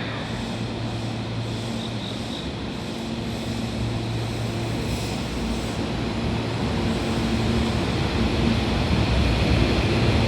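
Hankyu 1000 series electric train pulling out of the station. A steady hum runs under a running rumble that grows louder toward the end.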